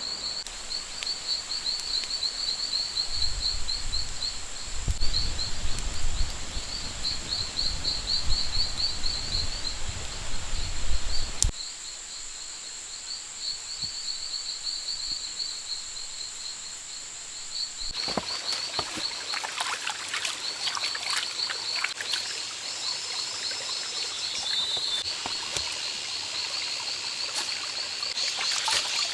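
Rainforest ambience: insects calling in rapid pulsing trills over a steady high-pitched drone. A low rumble underneath stops abruptly about eleven seconds in, and light rustling and clicking come in after about eighteen seconds.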